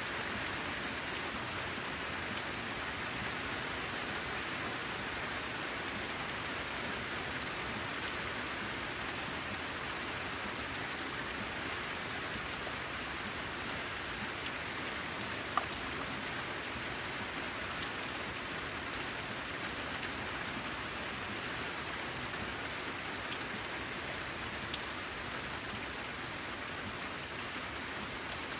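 Steady rain falling on a corrugated metal roof, a constant hiss with occasional louder single drop hits, the sharpest about halfway through.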